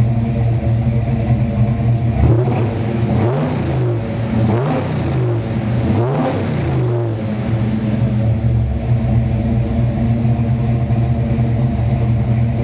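The freshly built 450 hp 409 V8 of a 1963 Chevrolet Impala SS idles through its stainless dual exhaust. About two seconds in it is revved up and down a few times, then settles back to a steady idle.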